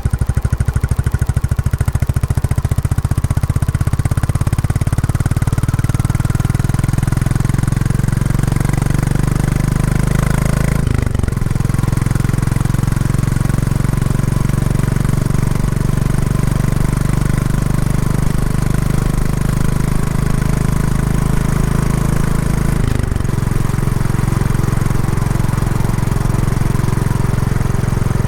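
Royal Enfield Classic 350 single-cylinder engine through its stock exhaust while riding, its separate firing beats audible at first, then settling into steady running. The engine note breaks briefly twice, about 11 and 23 seconds in, as at gear changes.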